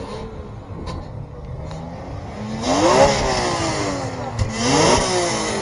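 A car engine revved twice, with the pitch climbing and falling back each time: one blip about three seconds in and a second near the end.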